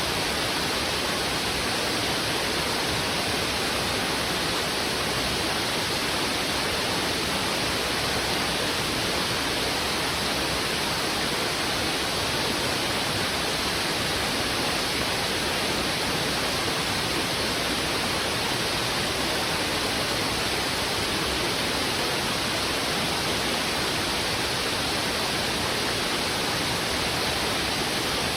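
Heavy river water rushing over rocks: a steady, even rush with no changes.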